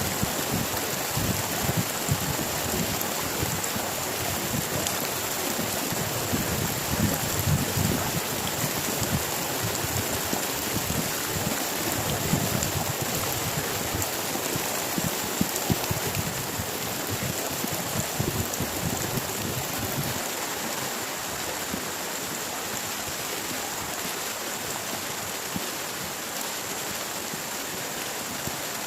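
Heavy rain falling steadily, a dense hiss with irregular low thumps that die away about two-thirds of the way through, leaving a smoother, slightly quieter patter.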